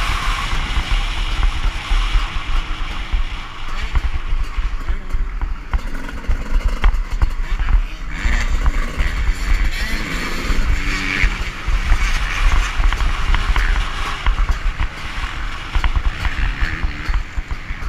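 Dirt bike engine running on a motocross track, heard through heavy wind buffeting on a GoPro's microphone.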